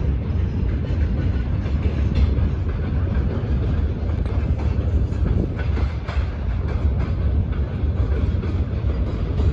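Freight train of open wagons rolling past: a steady low rumble with wheels clattering over the rail joints.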